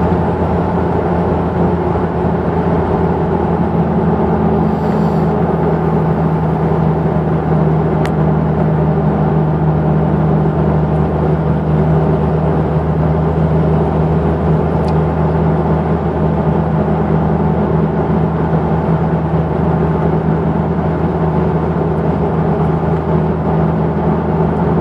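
Exhaust of a 1992 Jeep Cherokee's 4.0-litre inline-six, breathing through a 2.5-inch pipe and a Thrush Turbo muffler, running with a steady, even drone.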